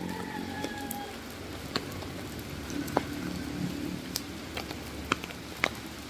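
Typhoon rain falling steadily, with heavy drops tapping sharply and irregularly on an umbrella overhead, the taps coming more often near the end.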